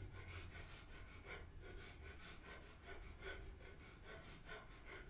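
Breath of fire: fast, rhythmic, forceful exhalations through the nose, about three a second, faint.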